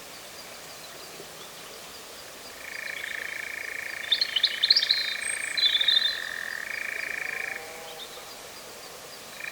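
European nightjar churring: a steady, rapid mechanical trill that starts about two and a half seconds in and stops about two seconds before the end. Another bird's brief, louder chirping notes sound over it in the middle.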